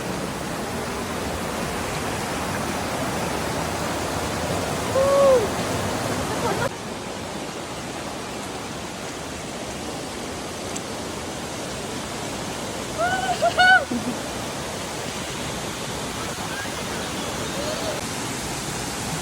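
A waterfall's steady rushing. A short pitched call rises and falls about five seconds in, and a quick cluster of similar calls comes near two-thirds of the way through.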